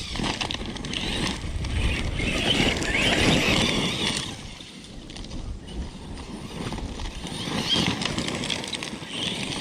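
Large electric RC car driving over dirt and rocks: a rushing, scrabbling tyre-and-ground noise that swells twice, loudest about three seconds in.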